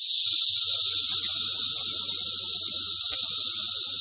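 Chorus of 17-year periodical cicadas in the trees: a loud, steady, high-pitched buzz that holds without a break.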